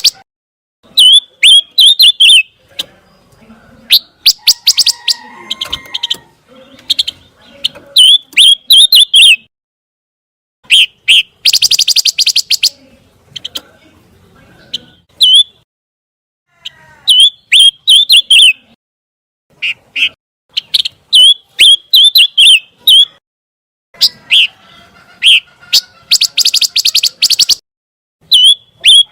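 Song of the songbird known to Indonesian bird keepers as pancawarna: phrases of fast, high chirping notes and rapid trills, each a second or two long, with short pauses between.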